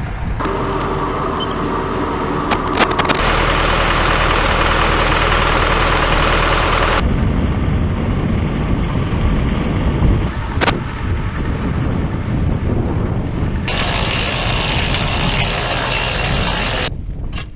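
Tractor engine running steadily, its sound shifting abruptly a few times between takes. Near the end, its mounted soil auger bores a planting hole in dry soil. A single sharp click comes about ten and a half seconds in.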